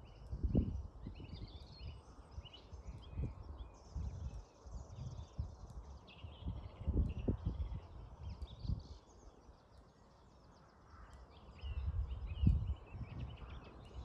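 Several songbirds chirping and singing in a dawn chorus, over irregular gusts of wind rumbling on the microphone. The gusts are the loudest part, strongest about half a second in, around halfway through and near the end, with a calm stretch just before the last.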